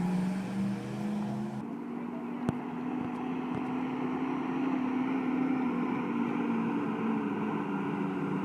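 A motor vehicle engine running with a steady hum, and a single sharp click about two and a half seconds in.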